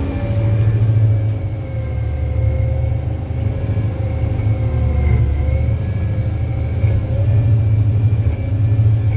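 Caterpillar 637 scraper's diesel engine running, a steady low rumble heard from inside the cab, its pitch wavering slightly.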